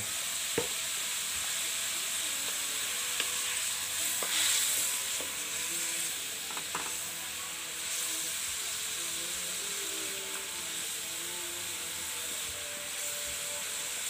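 Brown sauce sizzling in a metal wok over a gas burner, stirred with a wooden spatula that scrapes and knocks against the pan a few times. The sizzling grows briefly louder about four seconds in.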